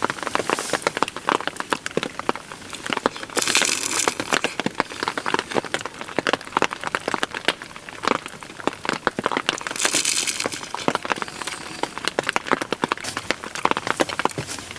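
Heavy rain: dense, irregular drops hitting close to the microphone over a steady hiss, with two brief hissing swells, one about three and a half seconds in and one about ten seconds in.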